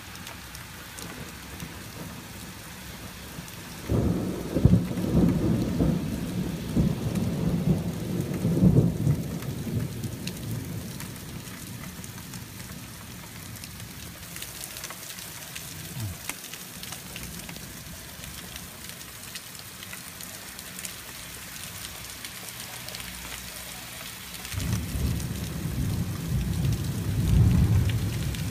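Steady heavy rain with two rolls of thunder: the first breaks suddenly about four seconds in and rumbles for some six seconds, and the second builds near the end.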